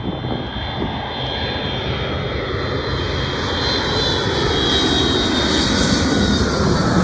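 Jet engines of a Boeing 757-200 airliner on landing approach, growing steadily louder as it nears, with a high fan whine over the rush of the engines and a tone that slowly drops in pitch in the second half as the plane passes.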